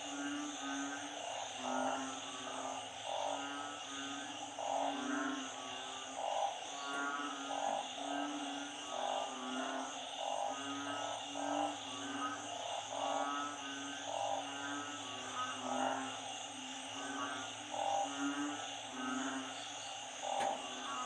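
Frog chorus after flood rains: narrow-mouthed frogs (ueng) giving short, low, moaning calls over and over, one to two a second, overlapping with higher pulsed calls of small frogs (khiat) and a steady high insect drone.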